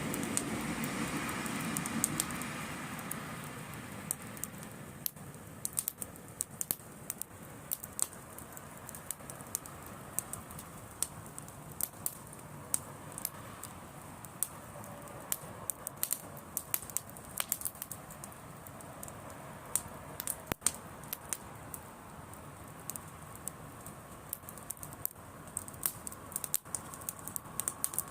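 Driftwood bonfire crackling, with irregular sharp pops and snaps. A low rumble fades away over the first few seconds.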